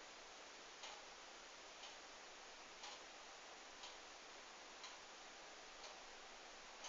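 Near silence with faint, even ticking, one tick about every second, over a steady hiss.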